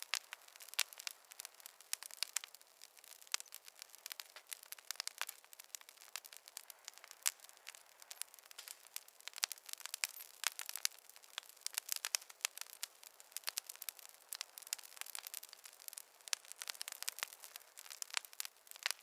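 Wood fire crackling in a fireplace: a steady stream of irregular sharp pops and snaps, several a second, over a faint hiss, with no low rumble of flames.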